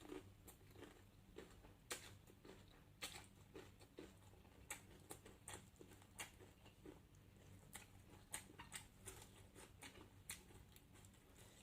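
Faint chewing and wet mouth clicks of someone eating, short irregular clicks several a second over a low steady hum.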